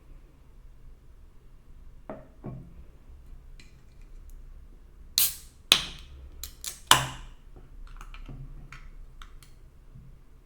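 Tableware being handled: scattered light clicks and knocks, with a cluster of four sharp, loud clacks a little past the middle.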